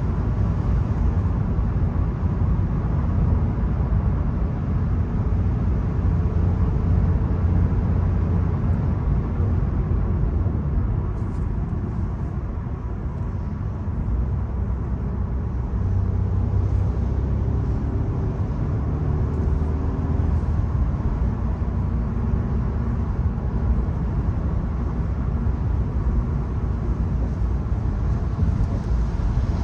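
Volkswagen Golf 1.0 TSI three-cylinder turbo petrol engine running while the car drives, under steady road and tyre noise. The engine note shifts up and down in pitch for a stretch in the middle.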